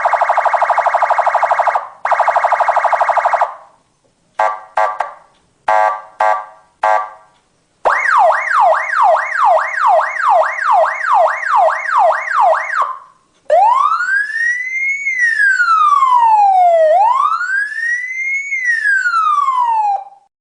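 Electronic police car siren stepping through its tones. First comes a very fast buzzing warble in two blocks, then several short chirps, then a quick yelp of about three rising sweeps a second. Over the last seven seconds it changes to a slow wail that rises and falls twice.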